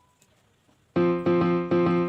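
Near silence, then about halfway through, background music starts suddenly: a keyboard, electric-piano-like, strikes repeated chords about three times a second.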